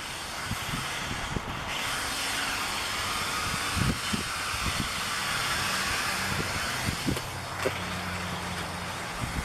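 Small quadcopter camera drone flying, its propellers whirring; the whir grows louder about two seconds in and eases off near the end, with scattered low thumps on the microphone.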